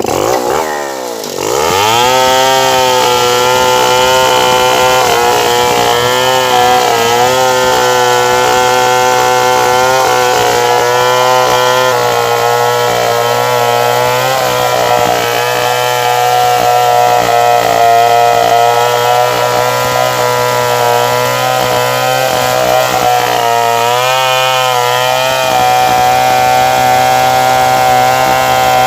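Stihl 070 two-stroke chainsaw revving up over the first two seconds, then running at high speed while sawing through wood, its pitch sagging briefly a few times under load.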